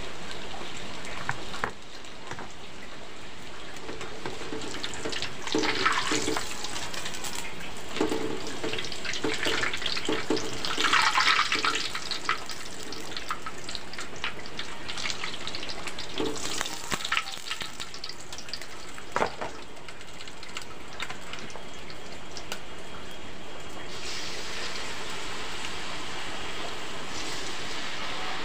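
Battered banana slices deep-frying in hot oil in a wok, with a steady sizzle and repeated clinks and scrapes of a metal spatula against the wok as pieces are turned and lifted out. The sizzle gets louder near the end as fresh batter-coated pieces go into the oil.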